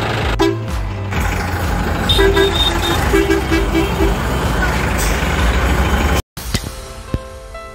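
A vehicle engine running steadily, with a short horn honk about half a second in and a quick run of short toots a couple of seconds later. Near the end the sound cuts off suddenly and music with a beat starts.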